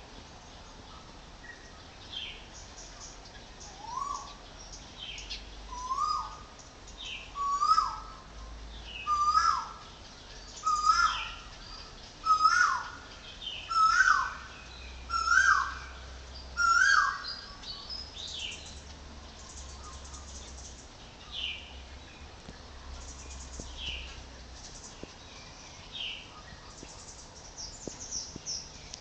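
A bird calling in a series: a sharp rising-then-falling note repeated about every second and a half. The calls grow louder over the first half, then stop. A fainter, higher, falling call repeats every couple of seconds throughout.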